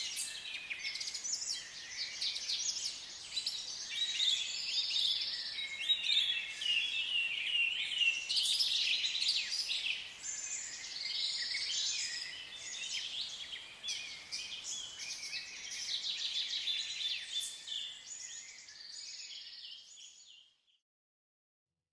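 Many birds chirping and chattering together, a dense, continuous chorus of short high calls; it fades out near the end.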